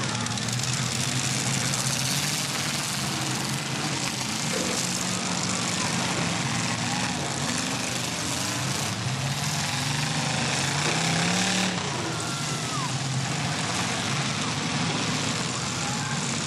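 Several demolition derby cars' engines running and revving together on a dirt track. One engine's pitch rises about ten seconds in, then drops off near twelve seconds.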